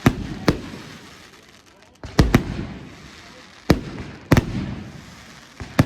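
Fireworks display: about eight sharp bangs of bursting fireworks, some in quick pairs, each trailing off in a rolling echo.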